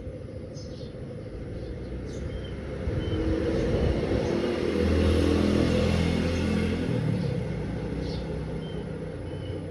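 A motor vehicle passing by: its engine grows louder over a few seconds, is loudest in the middle, then fades away. Birds chirp briefly near the start and near the end.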